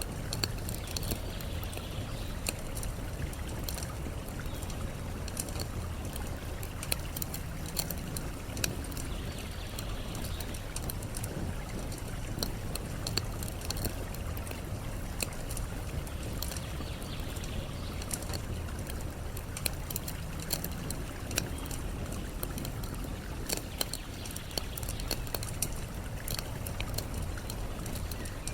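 Wood campfire crackling with frequent small sharp pops over a steady rush of flowing water.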